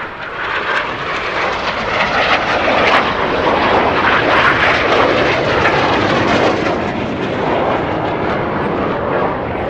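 Red Arrows' BAE Hawk T1 jets passing in a display flypast. The jet noise builds over the first two seconds, stays loud through the middle and eases a little near the end.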